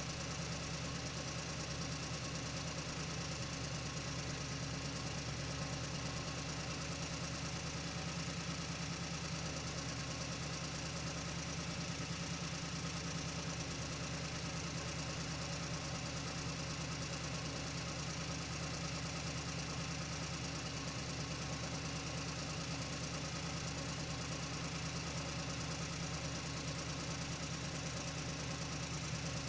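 A steady idling engine sound, unchanging throughout, with a low hum and a fast, even chugging.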